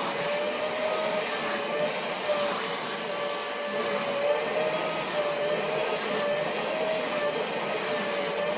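A vacuum cleaner running steadily, its motor giving a slightly wavering whine over a rushing hiss.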